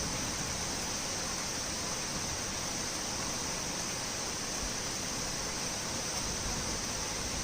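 Torrential rain falling steadily, an even, unbroken hiss of downpour.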